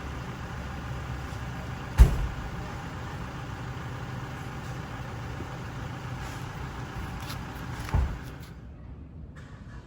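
Toyota 1ZR-FE four-cylinder petrol engine idling steadily, with two sharp knocks, one about two seconds in and one near the end. Soon after the second knock the engine hum drops away.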